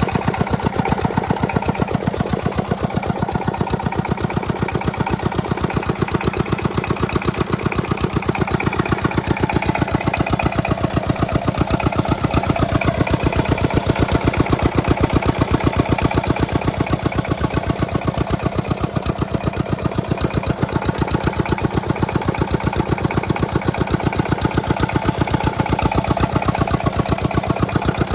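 Old diesel engine driving a water pump, running steadily at an even speed, its firing pulses coming several times a second.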